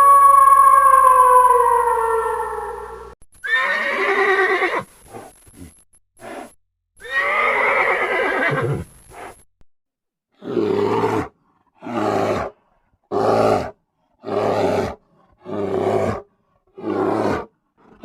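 Animal calls: a long, steady, pitched call that slowly drops and cuts off about three seconds in, then two rough, noisy calls, then seven short calls evenly spaced about a second apart.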